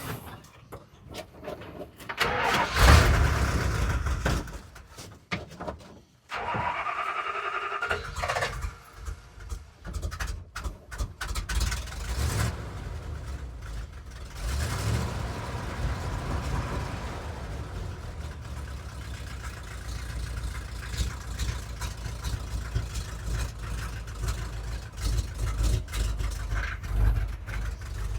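Camper truck's engine, a Road Runner car engine swapped into the truck, cranking on the starter and catching after sitting since last fall. It runs with a couple of revs, then settles into a steady run.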